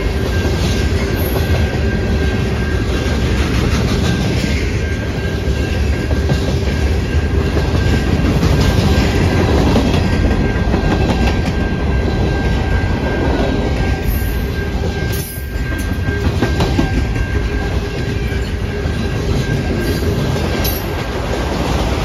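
Freight cars (covered hoppers, then autorack cars) rolling past at track side, their steel wheels rattling steadily over the rails. A thin steady high-pitched tone runs underneath and drops out about two-thirds of the way through.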